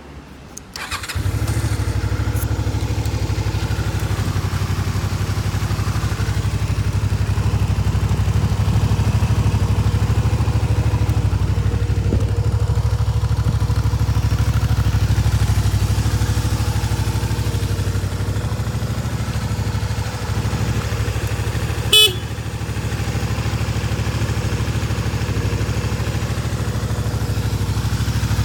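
Honda Magna 250's V-twin engine starting about a second in, catching at once and settling into a steady idle. A short sharp beep cuts in near the end.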